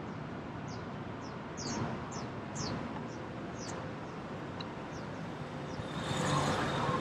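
Quiet lane ambience with a bird calling in short, high, falling chirps, about two a second, that stop about five seconds in. Near the end a vehicle approaches and the noise swells.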